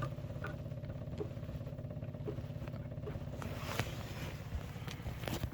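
Birkin Seven's engine idling steadily, with a few scattered light clicks over it.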